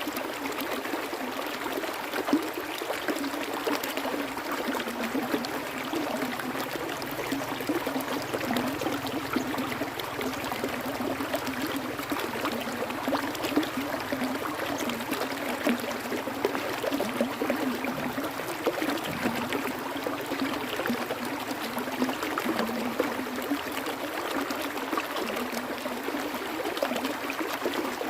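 Stream water flowing and trickling steadily, with many small splashing ticks and no deep rumble.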